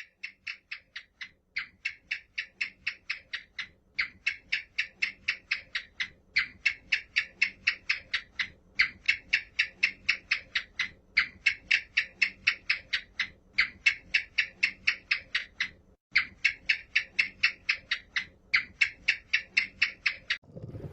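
An animal's call: short chirps repeated rapidly and evenly, about four to five a second, in runs of two to three seconds with brief pauses between.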